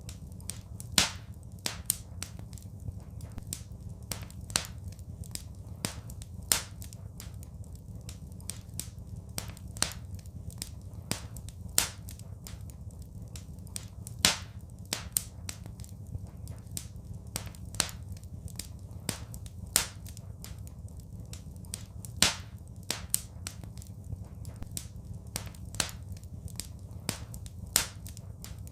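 Wood fire crackling in a fireplace: irregular sharp pops and crackles, with a louder snap every few seconds, over a steady low rumble.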